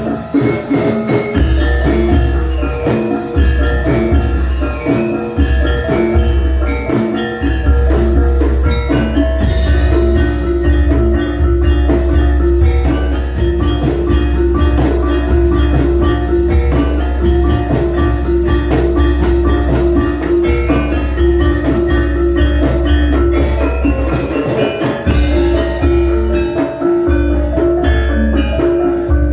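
Javanese gamelan ensemble playing a gending: bronze metallophones ringing out dense interlocking notes over kendang drums, with heavy booming bass from the sound system.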